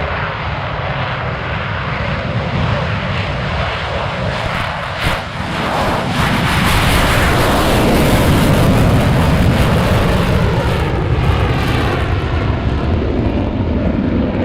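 F/A-18 Super Hornet's twin afterburning turbofan engines at full power during a flying display pass, swelling louder about six seconds in and staying loud, with a sweeping, shifting tone near the end as the jet passes.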